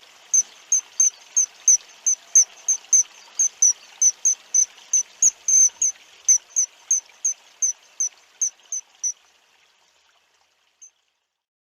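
A small bird calling over and over: short, high, even chirps about three a second, over a faint hiss of running river water. Both stop about nine seconds in, with one lone chirp near the end.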